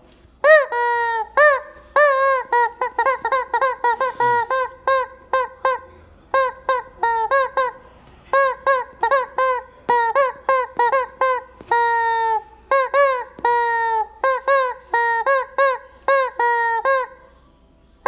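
Rubber chicken squeeze toy squawking over and over, dozens of short honks in quick runs with a few held longer, each dipping in pitch as it starts. The honking stops shortly before the end.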